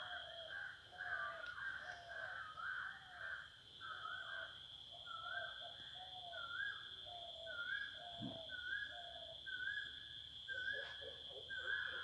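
A bird calls a short rising note over and over, about one and a half times a second, over a steady high insect drone. Near the end a faster run of lower notes joins in.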